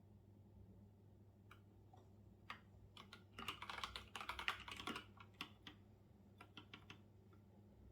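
Typing on a computer keyboard: a few single key presses, a quick run of keystrokes about halfway through, then scattered key presses again.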